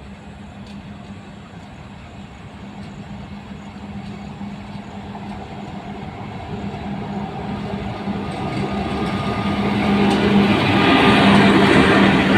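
Train approaching, its rumble growing steadily louder until the last couple of seconds, with a steady low hum from the locomotive running under it.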